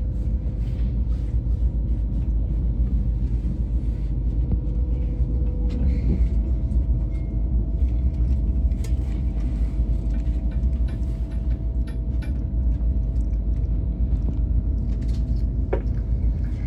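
Steady low rumble of an ICE high-speed train running, heard inside the passenger car, with a faint whine that steps up in pitch about six seconds in.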